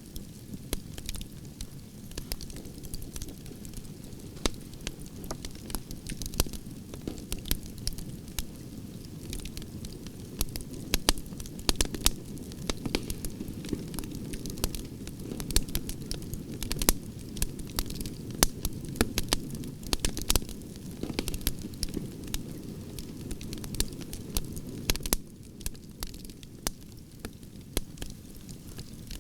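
Campfire of burning branches crackling, with frequent sharp pops and snaps over a low steady rush of flame.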